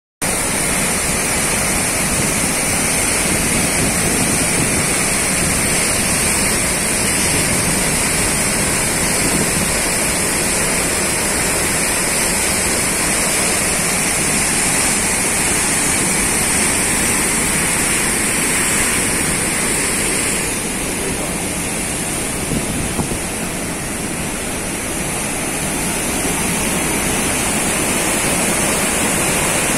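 Loud, steady rush of fast-flowing floodwater, easing slightly about two-thirds of the way through.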